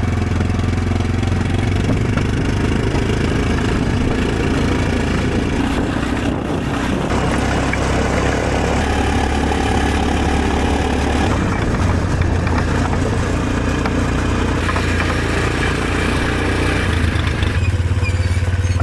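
Vehicle or machine engine running steadily with a deep, continuous drone and some clatter.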